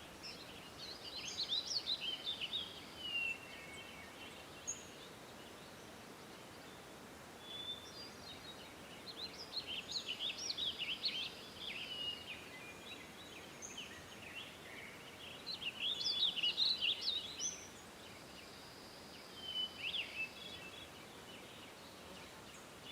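Bird song: bursts of rapid, high chirping notes come in phrases a few seconds apart, four in all, over a steady background hiss.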